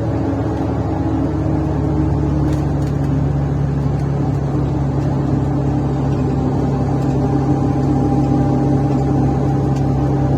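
Mercedes-Benz O530 Citaro Ü bus diesel engine running under way, heard from inside the bus as a steady drone through its defective, broken exhaust. The engine pitch climbs slightly about a second in.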